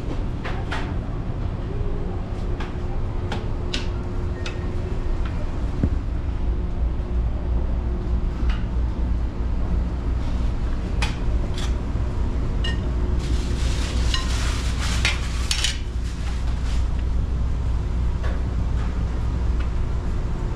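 Dishes and cutlery clinking and clattering in a busy ship's restaurant, scattered sharp clinks over a steady low engine drone, with a few seconds of denser clattering and rushing noise a little past the middle.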